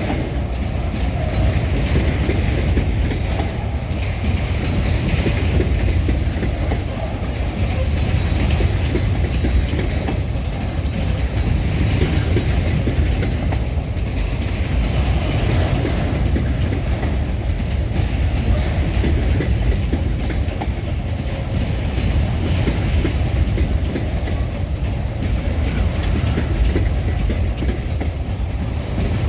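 Empty freight wagons rolling past, their wheels clattering over the rail joints in a steady run, with a brighter clatter swelling every few seconds.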